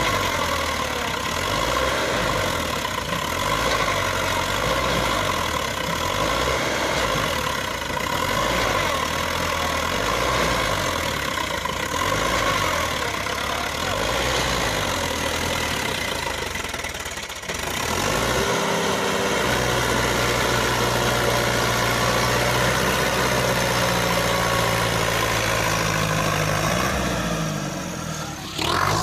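Sonalika DI 750 tractor's diesel engine running, its pitch rising and falling unevenly. After a brief dip a little past halfway it settles into a steadier note.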